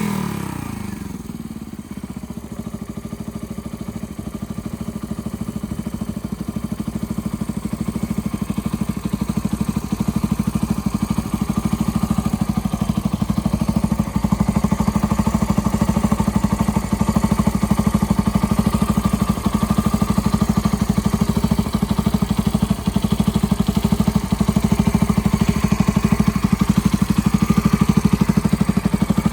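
Suzuki Grasstracker Big Boy's air-cooled single-cylinder four-stroke engine dropping back from a rev in the first second, then idling steadily with an even pulsing beat. The sound slowly grows louder.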